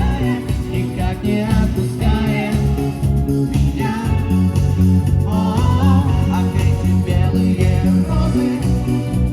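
A pop-rock cover band playing: a lead singer over bass and drums with a steady beat.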